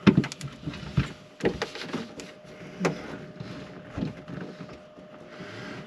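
Irregular knocks, clicks and scraping as a part is worked back into its opening, over a faint steady hum.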